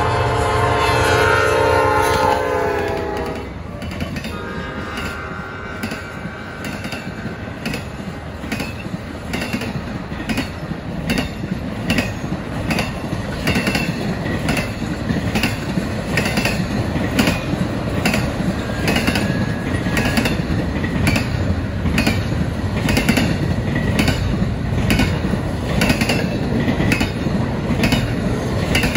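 Diesel freight locomotive horn sounding as the lead engine passes, dropping in pitch and cutting off about three seconds in. Then a long train of double-stack intermodal well cars rolls by, the wheels clicking over the rail joints in a steady rhythm.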